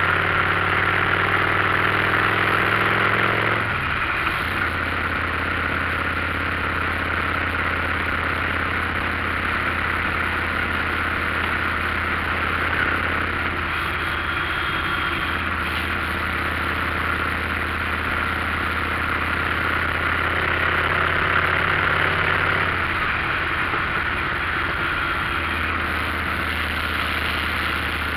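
A motorcycle engine running steadily while riding, under a constant rush of wind and road noise. Its pitch climbs over the first few seconds and then drops about four seconds in, as at a gear change.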